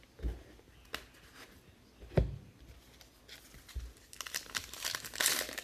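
A few soft thumps, then from about four seconds in, crinkling and tearing of foil trading-card pack wrappers as packs are opened.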